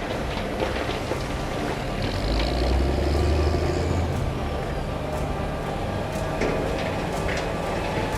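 Heavy diesel excavators running at a construction site, with a low engine rumble that swells for a couple of seconds and scattered metallic clanks and knocks of buckets working soil and stone.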